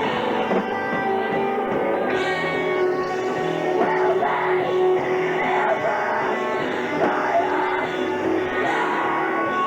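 Live rock band playing with guitars, and a voice singing over them about four to eight seconds in.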